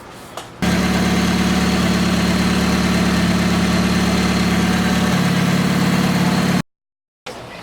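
Chrysler 420A 2.0-litre four-cylinder engine idling steadily, fitted with a new exhaust manifold in place of a cracked one. It comes in suddenly about half a second in, its low hum drops slightly about five seconds in, and it cuts off abruptly near the end.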